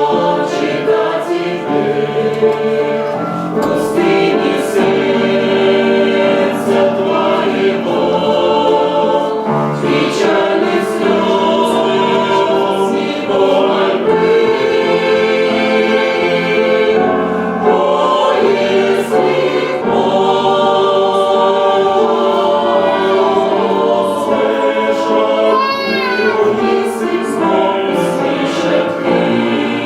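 A mixed church choir singing a hymn in several parts, with sustained chords.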